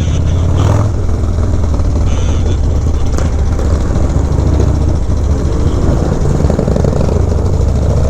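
Harley-Davidson V-twin motorcycle with a Fab 28 exhaust running steadily under way, a constant low rumble from the exhaust.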